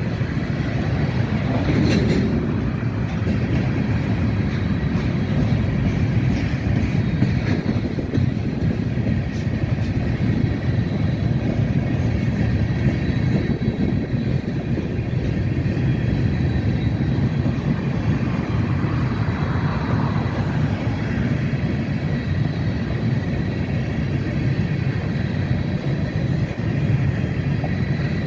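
Freight train cars rolling past with a steady rumble of wheels on rails and faint high wheel or flange squeal.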